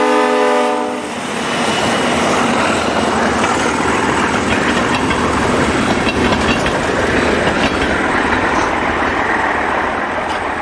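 A diesel locomotive horn sounds and cuts off about a second in, followed by the steady, loud noise of an Alco-led freight train rolling past, with faint clicking of wheels over the rails.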